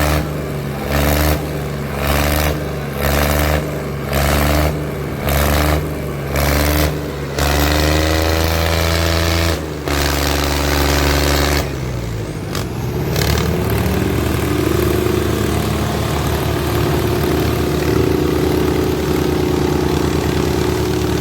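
Tractor diesel engines revved in short repeated bursts, then held at high revs under heavy load as the tractors pull against each other. About twelve seconds in, the engine note sags and climbs back before holding steady.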